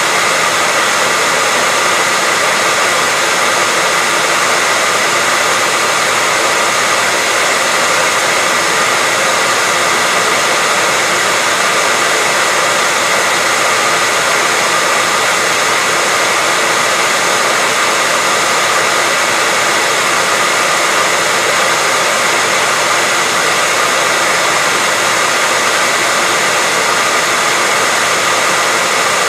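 Hair dryer running steadily: an unbroken, even whoosh of blown air with a faint steady whine from the motor.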